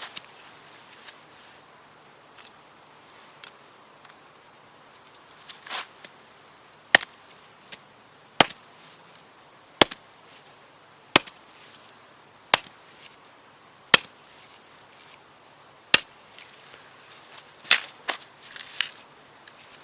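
Axe chopping firewood: a series of eight sharp, evenly spaced strokes about a second and a half apart, starting about seven seconds in, after a few fainter knocks and rustles.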